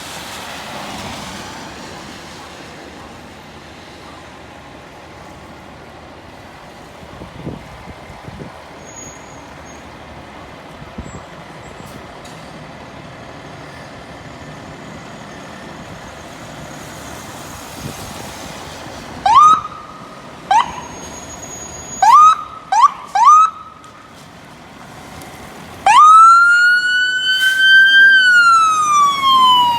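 Fire apparatus siren on an emergency response. Steady road noise at first, then about two-thirds of the way in four short rising siren yelps, then near the end one long wail that climbs and slowly falls in pitch.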